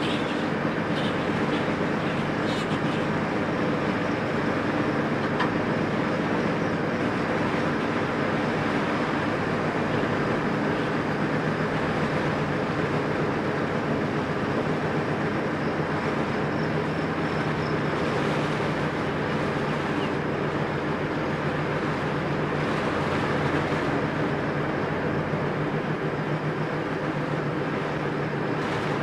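Freight train cars rolling along the track, heard from inside a car beside the line: a steady rumble with a low hum underneath.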